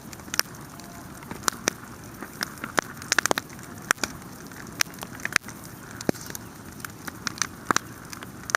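Wood fire burning with a steady low hiss and frequent sharp, irregular crackles and pops, a quick cluster of them about three seconds in.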